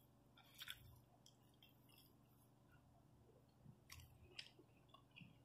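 Faint chewing and mouth smacks of a person eating by hand, with a few soft clicks about a second in and again around four seconds in.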